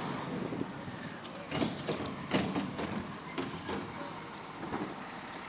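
Garbage truck running at the curb while it works, with a high squeal about a second and a half in and several sharp clanks.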